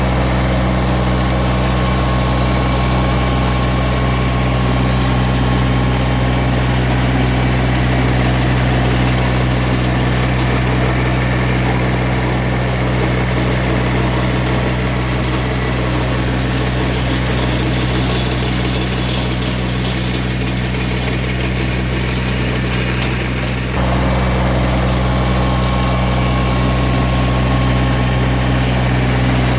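Massey Ferguson GC1710 sub-compact tractor's diesel engine running steadily. The sound changes abruptly about 24 seconds in.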